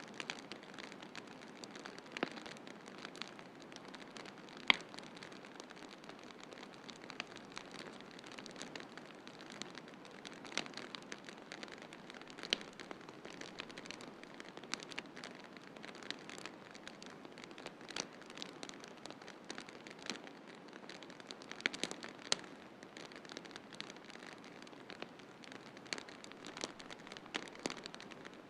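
Wood fire crackling in a fireplace: irregular sharp pops and snaps, one louder pop about five seconds in, over a steady soft hiss.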